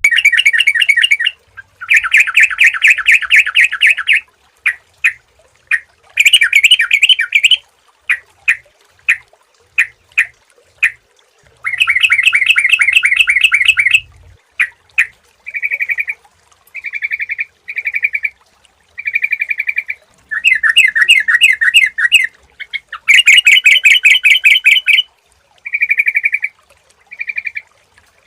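Sooty-headed bulbul (trucukan) singing loudly: bursts of rapid chattering trills a second or two long, broken by short single notes, and in the second half shorter, clearer whistled phrases repeated every second or so.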